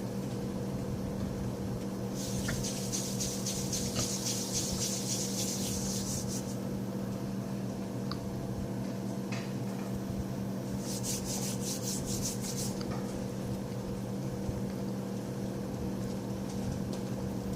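Two spells of dry rustling and rubbing, about four seconds and then about two seconds long, over a steady low electrical hum.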